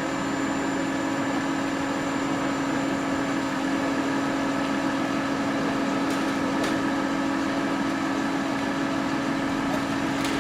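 An engine running steadily at idle, an even hum with a strong low tone; a couple of faint ticks sound over it, one about six seconds in and one near the end.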